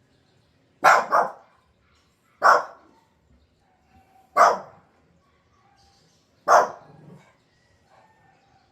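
Dog barking: a quick double bark about a second in, then three single barks about two seconds apart.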